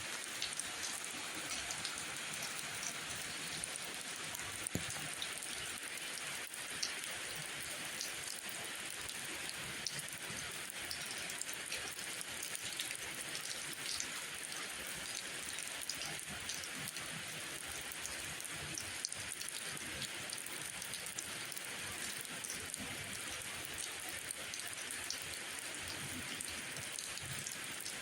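Steady rain falling, an even hiss with many small scattered drops ticking throughout.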